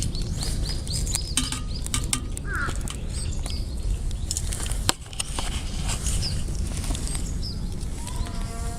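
Small sticks crackling and snapping as a wood fire burns in a titanium camp wood stove: irregular sharp clicks over a steady low rumble. A bird gives a quick run of chirps in the first second and another chirp a little later.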